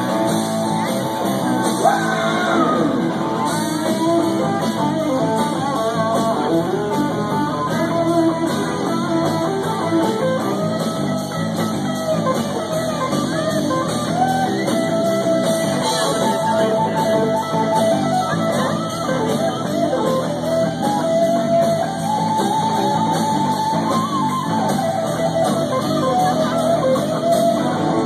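Live rock band playing an instrumental break, with a guitar carrying the lead line in bending notes over the rhythm section.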